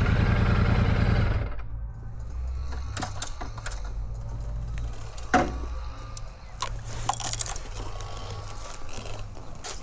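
Royal Enfield Shotgun 650's parallel-twin engine running loudly, dropping off about a second and a half in to a steady low idle. Scattered clicks and knocks sound over it, the sharpest about five seconds in.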